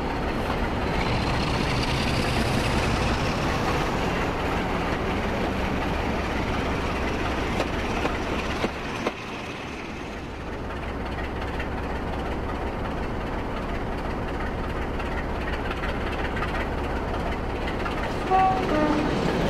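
Class 47 diesel locomotive engine running steadily with a low hum. A whine rises over the first few seconds, the sound drops briefly about nine seconds in, and a few short pitched notes sound near the end.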